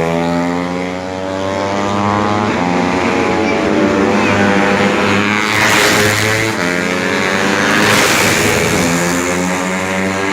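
Several four-stroke 125 cc underbone racing motorcycles running at high revs. Their overlapping engine notes rise and fall, with louder passes about six and eight seconds in.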